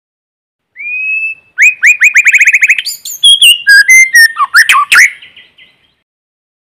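White-rumped shama singing one song phrase. It opens with a held whistle under a second in, runs into a fast string of repeated down-slurred notes, then a varied run of whistles and chattering notes that fades out about six seconds in.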